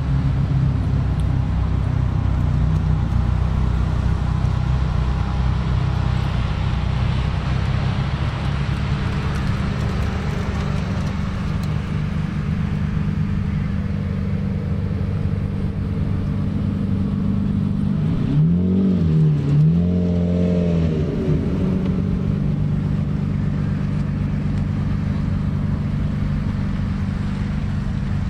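Italian sports car engines, among them a Ferrari 328's, a yellow Lamborghini's and an Alfa Romeo Spider's, running at low revs as the cars drive slowly past one after another. About two-thirds of the way through, one engine is revved twice, its pitch rising and falling each time.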